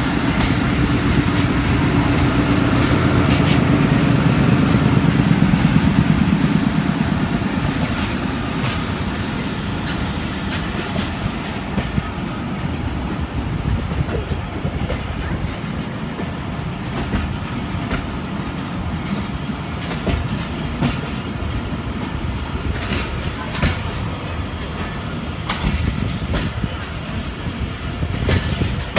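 Pakistan Railways ZCU-20 diesel-electric locomotive passing slowly, its engine drone loudest in the first few seconds and fading by about seven seconds in. Then the passenger coaches roll by with the clatter of wheels over the rail joints.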